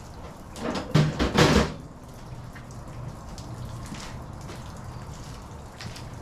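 Light rain dripping steadily with scattered small ticks, and a short clatter of several knocks about a second in.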